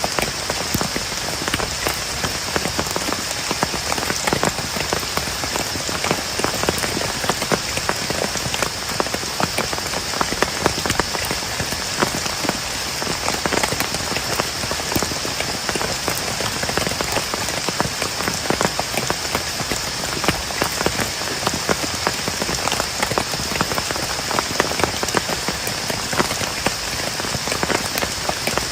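Heavy rain falling steadily on a plastic tarp shelter: a dense, unbroken rush of many sharp individual drop hits.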